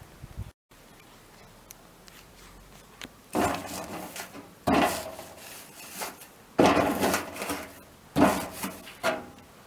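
Wood rubbing and scraping in four separate bursts, each about a second long, as firewood is handled.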